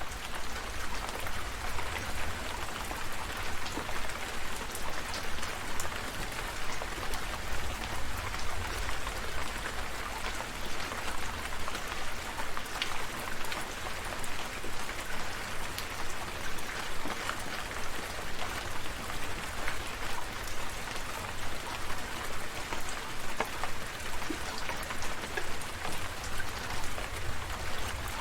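Steady rain falling, an even hiss dotted with many small separate drop hits, with a low rumble underneath.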